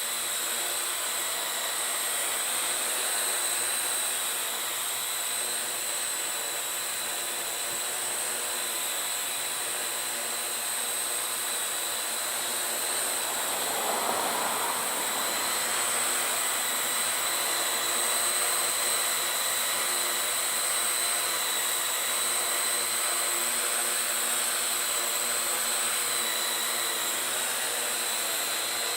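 Parrot AR.Drone 2.0 quadcopter's four electric motors and propellers running steadily with a high whine, with a brief louder swell of noise about halfway through.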